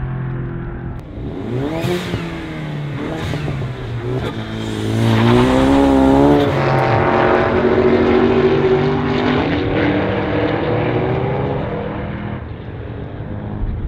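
S550 Ford Mustang's engine revving up and down as the car accelerates and slows through an autocross course, with a long climb in pitch about five seconds in.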